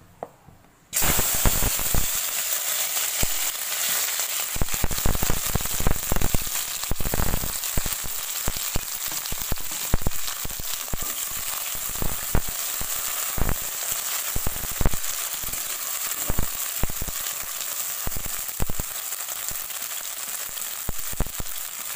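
Sliced bitter gourd going into hot mustard oil in a kadai: a loud sizzle starts suddenly about a second in and keeps going, with constant crackling and popping as the slices fry.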